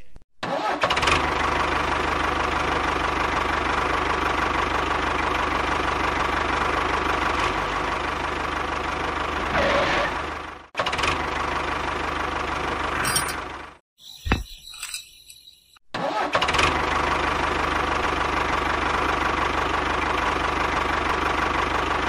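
Tractor engine running steadily. It cuts off abruptly twice, about eleven seconds in and again about three seconds later, with a short near-quiet gap before it runs again.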